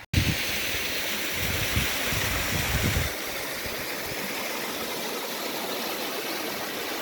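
A stream running steadily with an even rushing hiss. Wind buffets the microphone with low rumbling gusts for the first three seconds.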